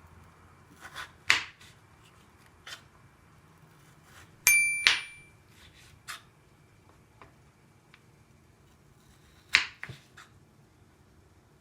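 Kitchen clatter: a few sharp knocks and clinks of utensils and cookware. The loudest, about four and a half seconds in, gives a short ringing clink.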